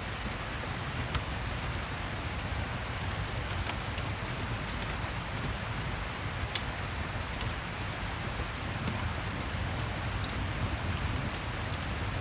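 Rain-and-fireplace ambience: steady rain with a low rumble underneath, and a scattering of faint sharp crackles.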